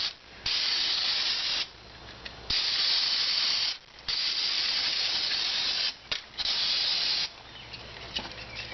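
Aerosol brake cleaner sprayed in four hissing bursts of one to two seconds each, with a few short spurts between them.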